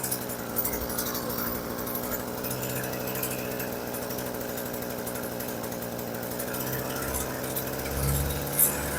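Earthquake tiller's MC43 43cc two-stroke engine running steadily at idle after being brought back into running order. Near the end it picks up and gets louder.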